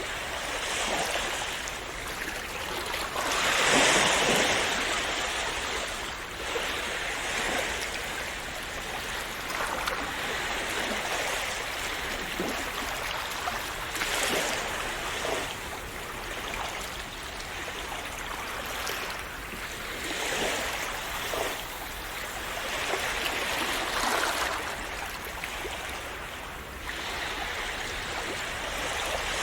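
Calm sea waves splashing and washing on the shore, swelling and easing every few seconds, the biggest surge about four seconds in.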